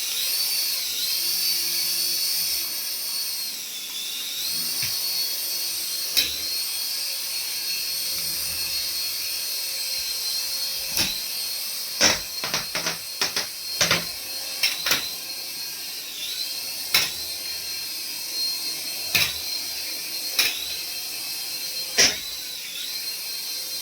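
Small electric motor of a remote-control toy whining steadily at high pitch, its pitch dipping briefly every few seconds as it slows and picks up again, with scattered sharp clicks and knocks, a quick run of them about halfway through.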